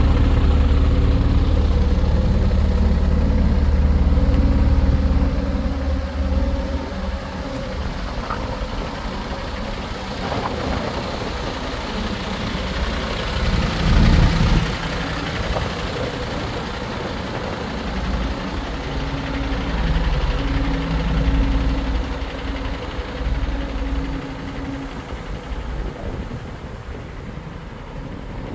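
Diesel engine of a Mercedes-Benz Antos 1824 truck idling, a straight-six. It is loudest at first, drops after about five seconds, then varies, with a short louder surge about halfway through.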